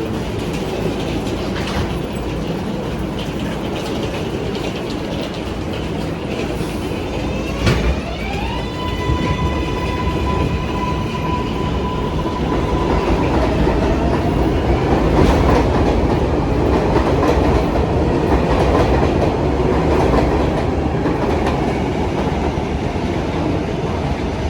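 R188 subway car running on the 7 line, wheels clacking over the rails with steady rumble. About eight seconds in there is a sharp knock, then a whine rises and holds at one steady pitch for about twelve seconds.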